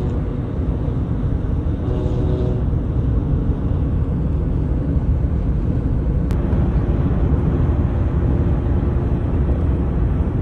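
Car driving on the road heard from inside the cabin: a steady low rumble of road and engine noise. A brief voice-like sound comes about two seconds in, and a single click a little after six seconds.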